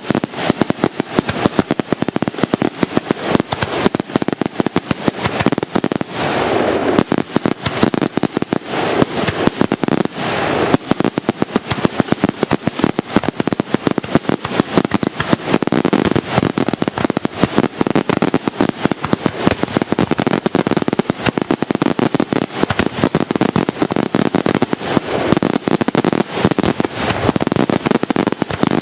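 Aerial firework shells bursting in a dense, continuous barrage, many sharp bangs a second with no pause, heard from close under the display.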